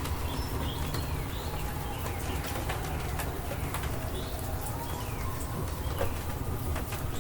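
Rainstorm ambience: small birds calling in short chirps over a steady low rumble, with scattered sharp ticks of raindrops.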